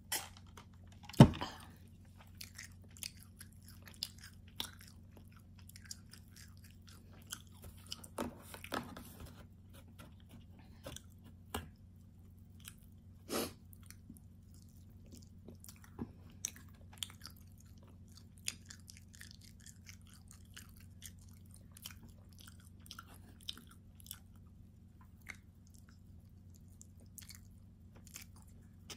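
A person chewing and biting food close to the microphone, with irregular crisp crunches and mouth clicks, the loudest about a second in, over a faint steady low hum.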